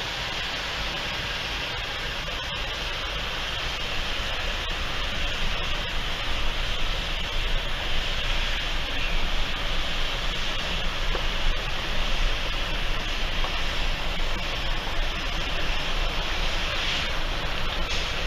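Steady rushing noise over a low rumble, growing louder and more uneven about four seconds in.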